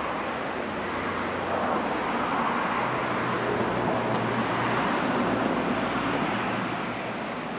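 Narrow-gauge electric locomotive hauling a freight train of tank wagons, heard from a distance as a steady rumble with a faint low hum. It swells a couple of seconds in and eases off near the end.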